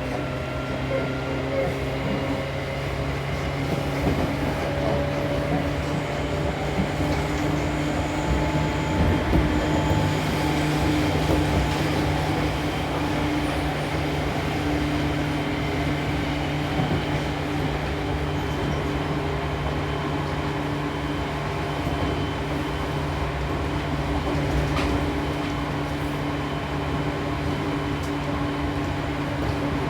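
Seibu New 2000 series electric train running at a steady pace, heard from inside the passenger car: wheel-on-rail rumble with a steady electrical hum from the traction equipment.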